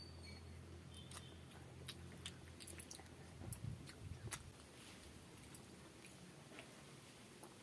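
Faint chewing and biting of someone eating a rice meal, with scattered small clicks and crunches of the food in the mouth.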